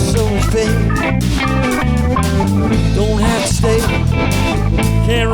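Band playing an instrumental passage between sung lines: guitar over steady bass notes and drums.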